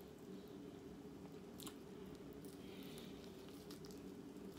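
Faint chewing and mouth sounds of someone eating, with a sharp click a little over a second and a half in, over a steady low hum.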